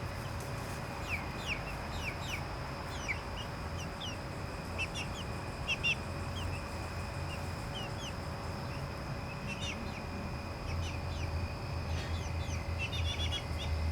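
Young chickens peeping: short, falling chirps scattered throughout, over a steady high tone. A low rumble comes in about ten seconds in.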